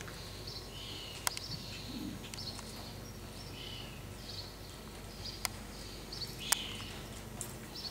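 Small birds chirping over and over, short high chirps about two a second, with a few sharp clicks, the loudest about six and a half seconds in.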